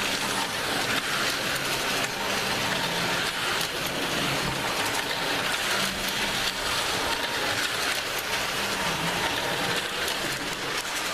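Tyco US-1 electric slot-car truck running on its plastic track: a steady rattling hiss with a faint wavering motor hum underneath.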